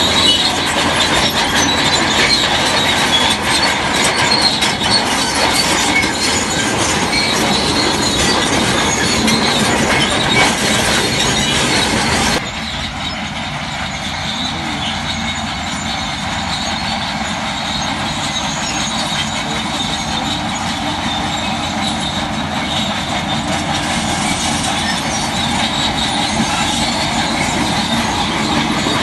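Shantui crawler bulldozer working, its diesel engine running under the metallic squeal and clank of its steel tracks. The sound changes abruptly and drops a little about twelve seconds in.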